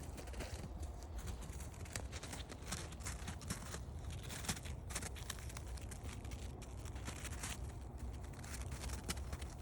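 Footsteps on a forest trail: an irregular run of small crunches and crackles underfoot, over a steady low rumble.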